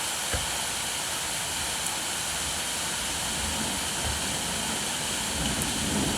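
Steady heavy rain, an even hiss. A single sharp tap comes about half a second in, and a low rumble swells in the second half.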